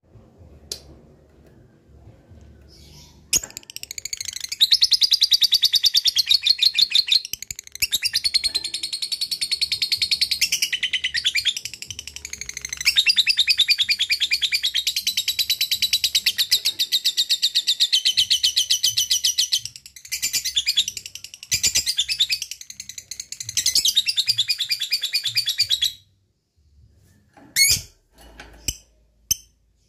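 Lovebird singing its long 'ngekek' chatter: a fast, unbroken run of high repeated notes lasting many seconds at a stretch, with a few brief breaks. It stops near the end, leaving a few single short calls.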